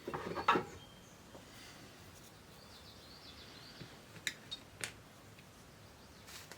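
Hands working on a cassette deck mechanism: a short burst of rustling and clattering at the start, then a few sharp small clicks about four to five seconds in.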